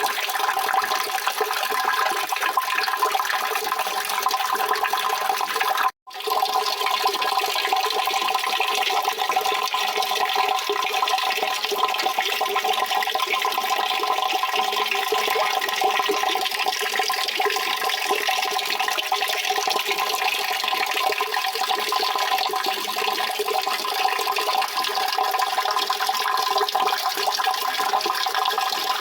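Steady rushing water, an even continuous wash of sound. It cuts out for an instant about six seconds in, then resumes unchanged.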